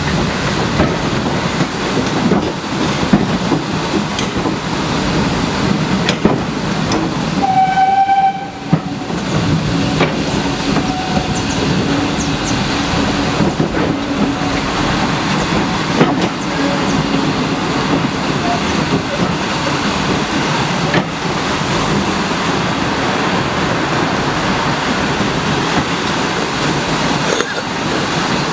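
Heritage train running along the line with a steady rumble and rattle of its wheels on the rails, broken by an occasional clack. About eight seconds in there is a short, high toot from the locomotive.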